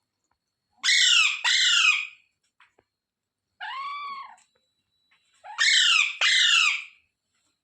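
A green parrot screeching: two loud, harsh calls in quick succession, a softer single call about four seconds in, then another loud pair of harsh calls.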